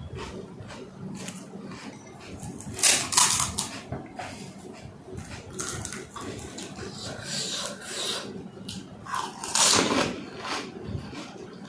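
Close-miked eating of pani puri: chewing and crunching of the crisp puris, with two louder crunchy bursts, about three seconds in and again near the end.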